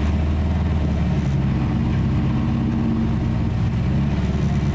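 Rally car's engine idling while the car stands still, heard from inside the cabin, with small shifts in pitch.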